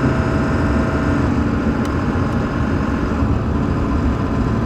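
Ford F-350 diesel pickup carrying a truck camper, driving with a steady engine drone and road rumble.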